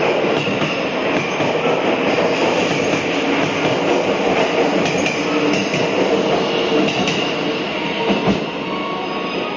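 JR 651 series electric multiple unit pulling out and rolling past close by: a steady rumble of wheels on rail with scattered clicks. The sound eases off as the last car goes by near the end.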